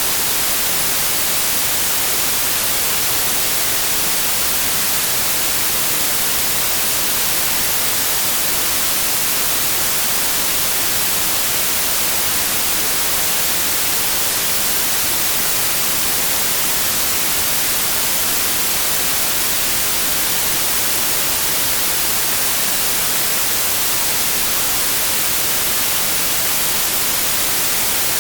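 Synthetic white noise: a steady, loud, even hiss with no changes.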